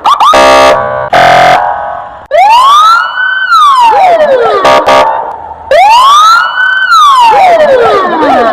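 Electronic police siren. It opens with a quick chirp and two short, buzzy horn blasts, then gives two long wails, each rising to a peak and sliding back down over two to three seconds.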